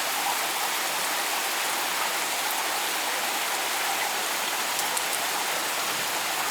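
Steady rainfall, an even hiss of drops with a few faint ticks of individual drops.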